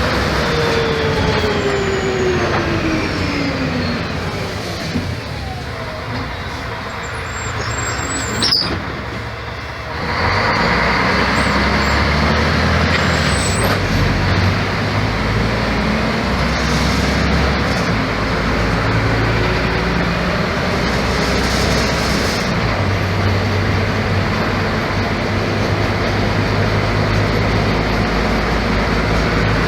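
Mercedes-Benz O-500MA bus diesel engine (Bluetec 5) with Voith automatic transmission: a falling whine at first as the bus slows, then a quieter stretch with a sharp click about eight and a half seconds in. About ten seconds in the engine pulls away louder and runs steadily under load.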